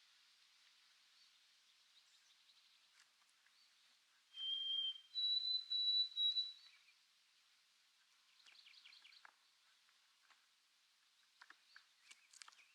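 White-throated sparrow singing its clear whistled song once: a long lower whistle, then higher whistles held in a short series. Fainter short chirps follow later on.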